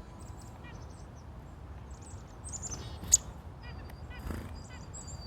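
Small birds chirping and calling in short repeated notes over an outdoor background, with one sharp click about three seconds in.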